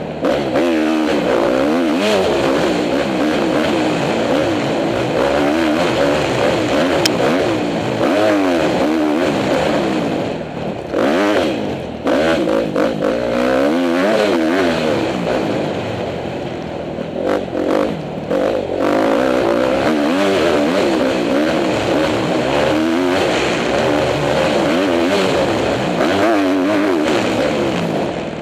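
Four-stroke single-cylinder engine of a 2010 Honda CRF250R dirt bike being ridden hard, its pitch rising and falling again and again as the throttle is opened and closed through the gears, with a few brief lulls where the throttle is eased off.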